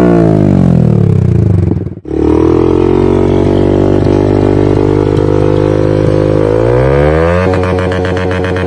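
Yamaha YZF-R15 V4's single-cylinder engine revving through an aftermarket exhaust: the revs fall away, the sound breaks off sharply about two seconds in, then holds a steady high rev that shifts again near the end.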